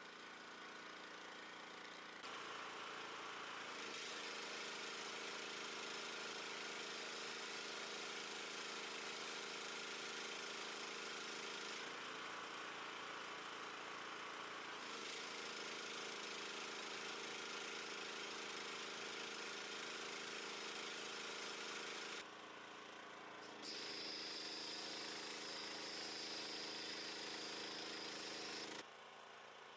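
Pressure washer running steadily, its motor humming under the hiss of the spray. The sound changes briefly a few times, around 12 s, 22 s and 29 s, as the spray lets up and resumes.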